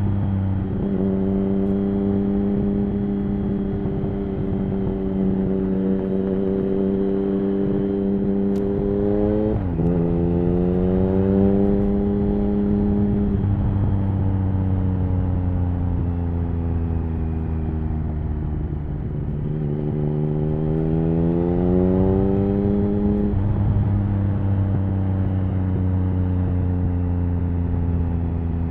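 A Triumph Speed Triple 1050's three-cylinder engine running through an aftermarket HP Corse Hydroform exhaust while the bike is ridden. The engine holds a steady pitch. About a third of the way in the revs change sharply, as in a gear change, and around two-thirds of the way in they climb steadily under throttle before falling back.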